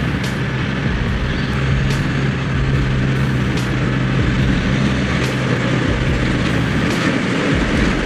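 A Kenworth road train's diesel engine running steadily, a deep even drone.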